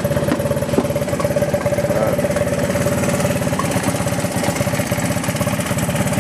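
1983 Honda ATC 200S three-wheeler's single-cylinder four-stroke engine idling steadily with an even, fast pulse and a steady tone over it, running cold just after a first-pull cold start.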